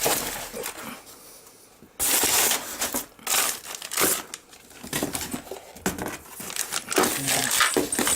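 Packaging crinkling and rustling in irregular bursts as boxed motorcycle parts are handled and rummaged through, louder from about two seconds in.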